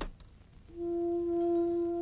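Cartoon score: after a brief click at the start, a single wind-instrument note comes in about two-thirds of a second in and is held steady.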